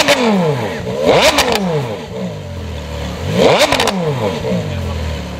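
Porsche Carrera GT's V10 engine revved while the car is stationary: three quick throttle blips whose pitch rises and falls sharply, one at the start, one about a second in and one about three and a half seconds in. Between the blips and near the end it drops back to a steady idle.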